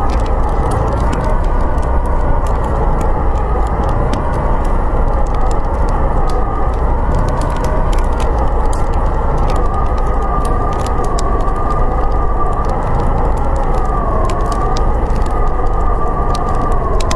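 Howling blizzard wind, a steady rushing roar with a wavering whistle that slowly rises and falls in pitch, over a deep rumble. Small pops and crackles of a wood fire run through it.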